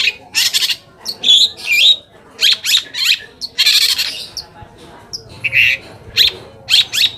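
Long-tailed shrike (cendet) singing a rapid, loud run of short harsh, scratchy notes and chatters mixed with quick whistled slurs, the aggressive full song that stirs other shrikes to answer.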